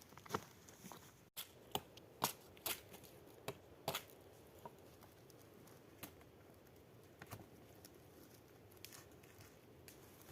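Irregular light snaps and crackles over a faint steady hiss, several close together in the first four seconds, then only a few.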